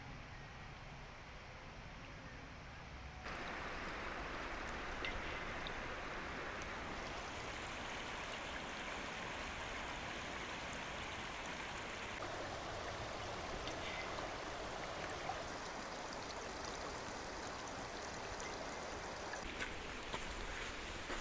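Stream flowing, a steady rush of water that steps up louder about three seconds in.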